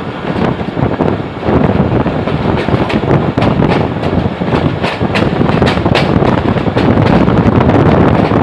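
Passenger train running along the track, heard from on board: a steady rumble of running noise with wind on the microphone, and a run of sharp clicks in the middle as the wheels pass over the rails.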